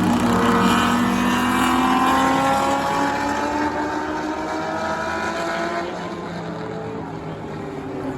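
Several street-car engines in an any-car enduro field running at race speed on a short oval. Their overlapping engine notes slide slowly in pitch as the cars pass. The sound is loudest in the first couple of seconds and eases off a little after about six seconds.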